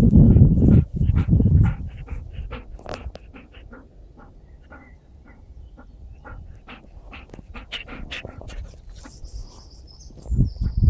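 Groenendael (Belgian Shepherd dog) sneezing: two loud blasts at the start and another near the end, with a run of short, sharp sounds in between.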